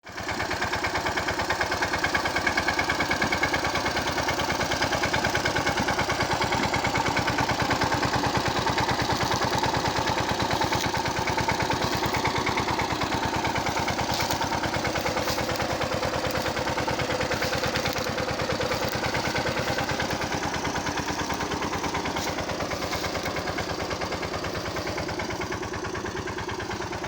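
Mahindra Yuvraj 215 tractor's single-cylinder diesel engine running steadily, with a rapid, even pulse.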